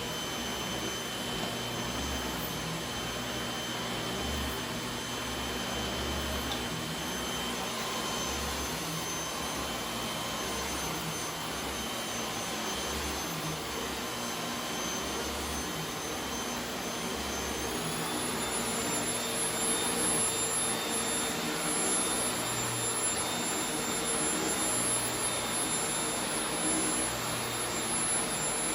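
Corded paper-bag vacuum cleaner running steadily, a high motor whine over the rush of suction; about two-thirds of the way through, the whine steps up to a higher pitch and the sound gets a little louder.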